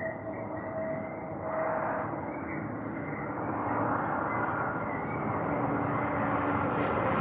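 Distant engine noise: a steady drone that grows louder, with faint bird chirps above it.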